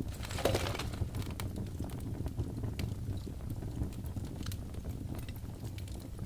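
Wood fire burning in a fireplace: a steady low rumble of flames with scattered sharp crackles and pops from the burning logs, and one louder hissing pop about half a second in.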